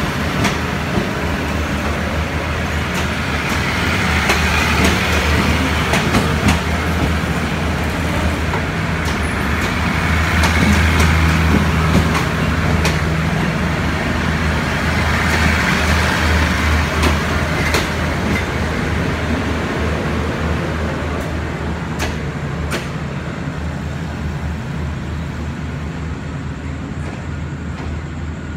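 SRT express train's passenger coaches rolling slowly past while departing: a steady low rumble and hum of wheels on rail, with scattered sharp clicks and clanks. It fades gradually near the end as the last coach pulls away.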